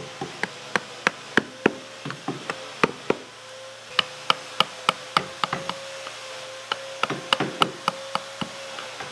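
Mallet tapping a wood-carving chisel into wood: sharp, irregular knocks about three a second, over a steady hum.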